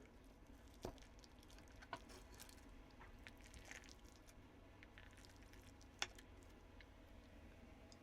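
Near silence with three faint, short clicks or taps, about one second in, two seconds in and six seconds in.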